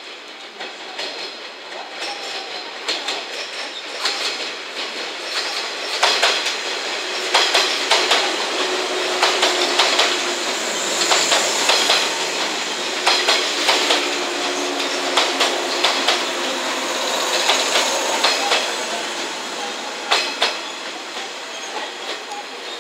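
JR West 115 series electric train (seven cars) rolling slowly past, its wheels clacking over rail joints and points. High wheel squeals come about halfway through and again a few seconds later, and the noise builds to a peak in the middle, then eases.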